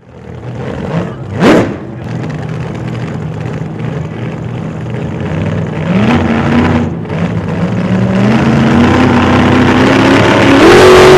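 Turbocharged Hemi V8 pickup engine under acceleration, its pitch climbing in steps and growing louder toward the end, with a brief sharp whoosh about a second and a half in.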